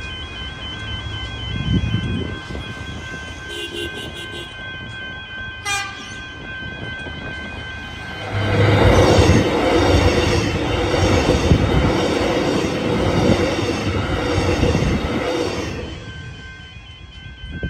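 Level crossing bells ringing steadily. A Metro Trains X'Trapolis electric train then passes from about eight seconds in to about sixteen, its rumble and rhythmic wheel clatter over the rails drowning the bells. A brief horn sounds about six seconds in.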